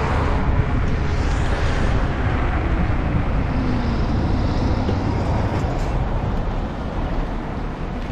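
Wind rushing over the microphone of a moving bicycle, with steady road noise.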